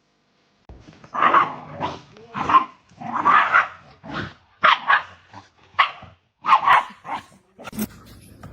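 A dog barking repeatedly, a run of about ten barks starting about a second in.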